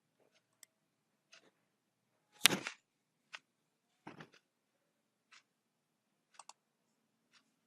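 Scattered single clicks from computer input devices, about one a second, with one louder knock about two and a half seconds in.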